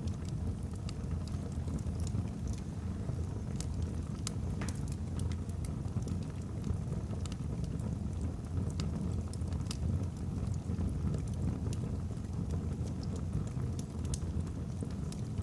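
Wood fire burning in a fireplace: a steady low rumble of flame with frequent, irregular sharp crackles and pops from the logs.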